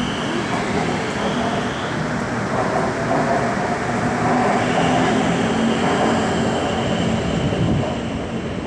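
Bozankaya electric multiple unit train running on the rails, with steady wheel and running noise and a high-pitched whine that fades early and comes back about halfway through.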